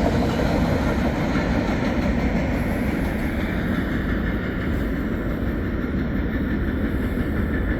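Train cars rolling past on the track: a steady rumble of wheels on rail that eases off slightly.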